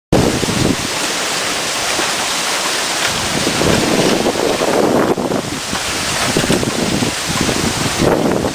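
Strong wind blowing hard across the microphone: a continuous loud rushing noise with low buffeting that rises and falls in gusts.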